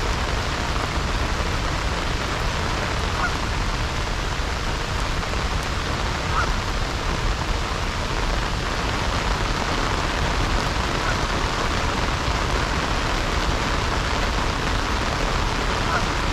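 Heavy rain falling steadily, an even dense hiss, with a faint short high sound every few seconds.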